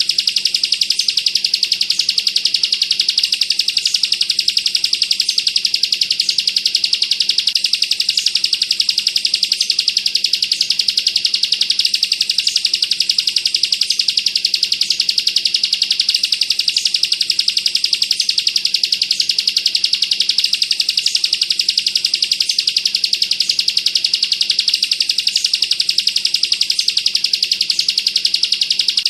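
Bar-winged prinia (ciblek) singing a continuous, very fast rattling trill, the 'bren' or machine-gun style, with a short higher note about once a second.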